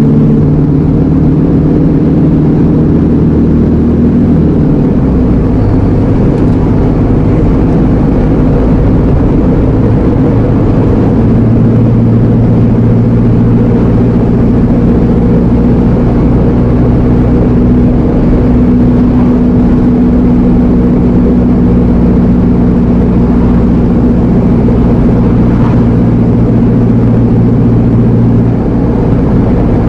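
Iveco Eurocargo lorry's diesel engine running steadily while driving, heard from inside the cab. The engine note shifts about four seconds in, then holds steady.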